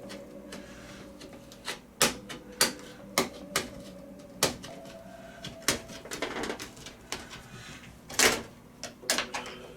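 About a dozen sharp, irregular clicks and knocks of hand tools and plastic and metal parts inside an opened LCD TV, as an LED backlight strip is worked loose from the back panel.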